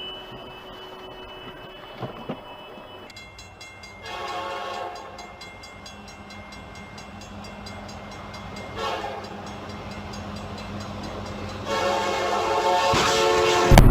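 A horn blown three times: a blast of about a second, a short one, then a long blast of about two seconds, over a steady low hum.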